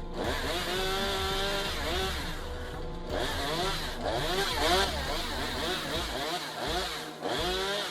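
Chainsaw revving up and down again and again as it cuts, each rev a rise and fall in pitch.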